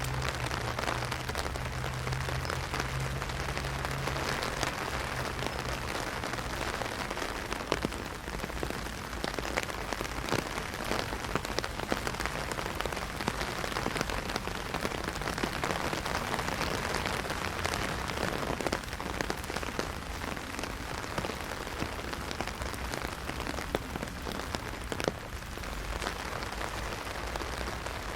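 Heavy rain drumming on an umbrella: a dense, steady patter with many sharp individual drop hits. A low hum sits underneath for the first several seconds, then fades out.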